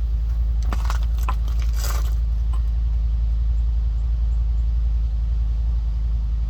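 A steady low motor hum, like an engine running, with a few light clicks and scrapes between about one and two and a half seconds in.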